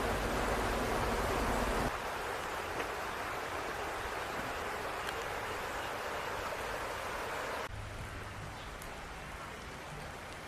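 Steady outdoor ambience after rain, an even rushing noise of wet surroundings and running water, which changes abruptly twice: about two seconds in and again about three quarters of the way through.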